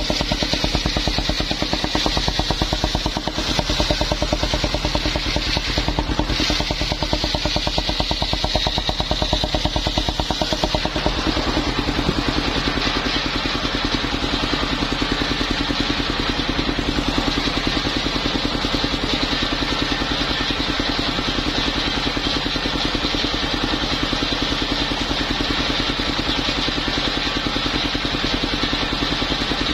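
Engine of a mobile circular sawmill running steadily with a fast, even beat and a band of high noise above it; the sound shifts slightly about eleven seconds in.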